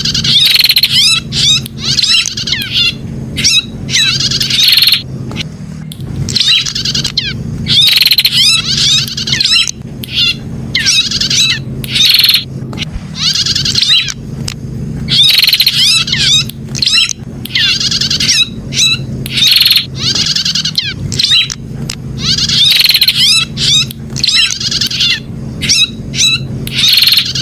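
Prinia (prenjak) song: loud bursts of rapid, sweeping chirps and trills, each about a second long, with short gaps between them. The same run of phrases comes round again about every seven and a half seconds, as in a looped lure-call recording.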